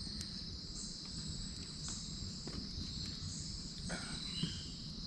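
Steady chorus of crickets, a continuous high trill with a pulsing higher layer, over a low background rumble and a few faint clicks.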